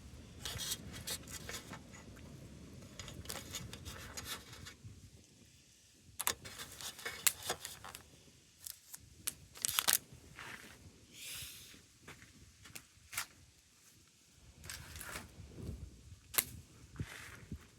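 Campfire crackling, with irregular sharp pops and snaps, some in quick clusters; a low rumble under it fades out about five seconds in.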